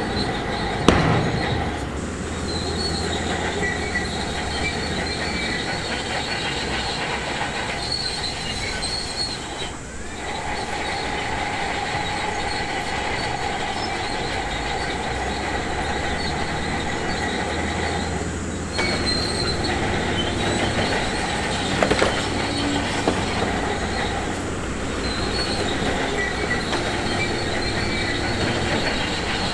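Shantui DH17C2 crawler bulldozer working: its diesel engine runs steadily while the steel tracks squeal and clank. There is a sharp knock about a second in, and the sound dips briefly around the middle.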